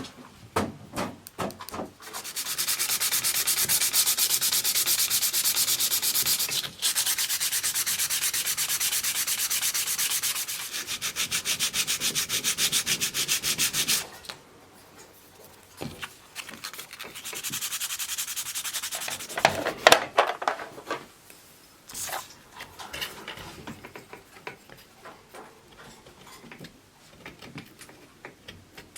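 Wood being sanded with fast, even scraping strokes: one long stretch of about twelve seconds, then a shorter one, with a couple of sharp knocks after it.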